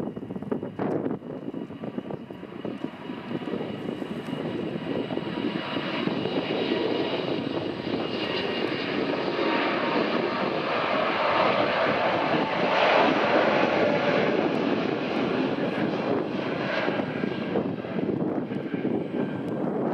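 Airbus A380's four Rolls-Royce Trent 900 turbofans at takeoff power, a steady jet roar that swells to its loudest around the middle and eases a little near the end, with a thin high whine in the first half.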